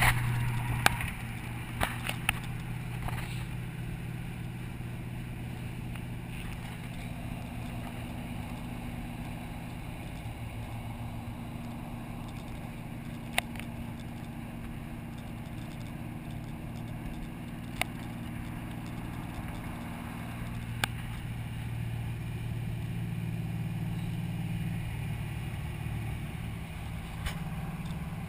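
Fox-body Mustang's small-block V8 running at low, steady revs while cruising, heard from inside the car; it eases off through the middle and picks up again about 22 seconds in. A few sharp clicks stand out now and then.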